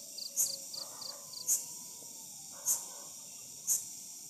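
Night insects calling: a sharp high chirp repeating about once a second, with a fast ticking trill from another insect during the first second and a half.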